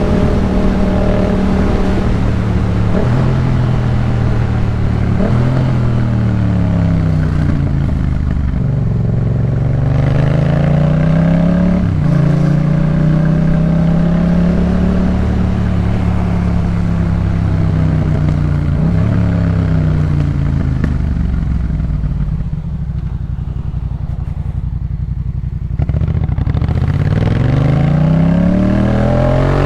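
Yamaha MT-07's 689 cc parallel-twin engine through a Jeskap K4 full aftermarket exhaust on the move, its pitch rising under acceleration and dropping at each gear change. It holds a steady note for several seconds in the middle. It eases off and goes quieter about two-thirds of the way in, then revs up again near the end.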